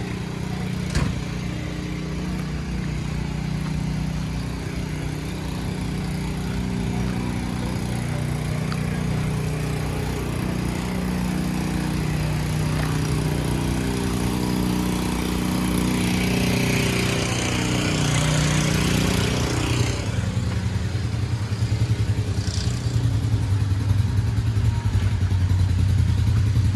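A motorcycle engine running, its pitch wandering up and down, then settling into a louder, pulsing, uneven idle for the last several seconds. A single sharp click comes about a second in.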